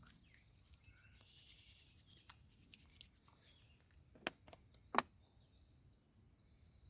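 Hands rubbing together while washing with soap, faint, with two sharp clicks about four and five seconds in.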